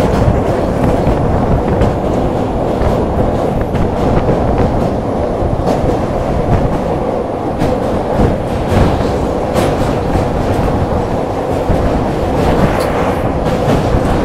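Passenger train running across a steel truss bridge, heard at a sleeper coach's emergency window: a loud, steady rumble of wheels on the rails, broken by frequent irregular sharp clicks and knocks.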